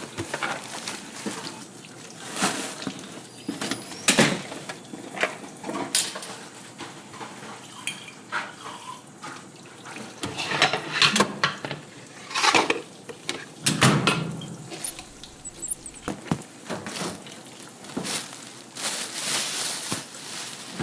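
Irregular clinks and clatters with splashing water, like dishes being handled at a sink.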